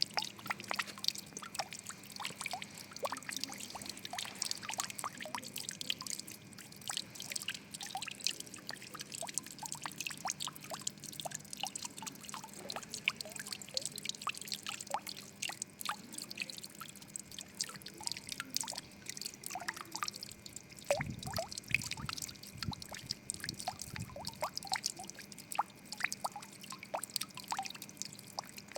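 Water trickling and dripping steadily, with many small irregular drops and plinks, and a brief low rumble about two thirds of the way through.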